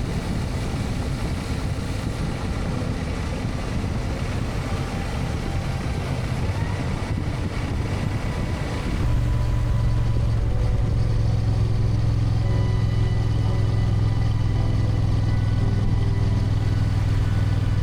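Motorcycle running while being ridden, with rushing noise over the engine. About nine seconds in the sound changes suddenly to a louder, steady low engine drone.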